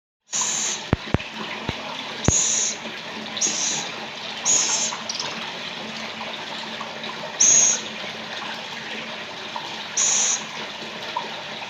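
Pet scops owl giving short, raspy hissing calls, one every second or few, over a steady hiss. A few sharp clicks come in the first couple of seconds.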